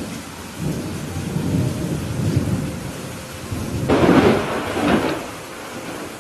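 Thunder rumbling low over steady rain, building from about half a second in to a louder, sharper crack of thunder about four seconds in, then dying away.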